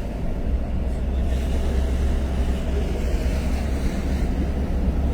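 A car driving on a road: a steady low engine and road rumble with tyre and wind hiss, the hiss growing a little louder about a second in.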